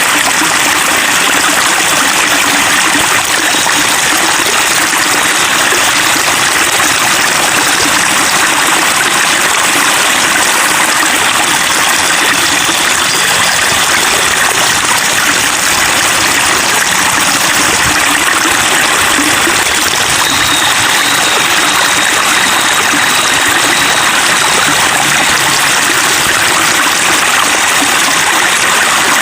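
Water trickling and babbling steadily, like a small stream running over stones, an even, unbroken rush with no changes.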